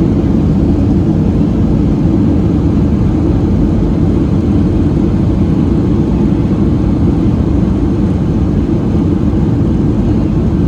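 Steady, loud, low noise of a Boeing 737-700's CFM56-7B engines and airflow, heard inside the passenger cabin during the landing. It eases slightly near the end.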